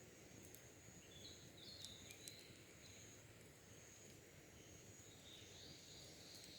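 Faint wild birds chirping over a steady high insect trill, with a few small crackles from campfire embers.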